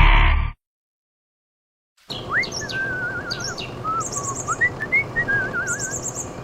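A voice-like sound cuts off half a second in, then dead silence, then birds singing from about two seconds in: clear rising whistles and wavering trilled notes, with higher, quicker chirps over them.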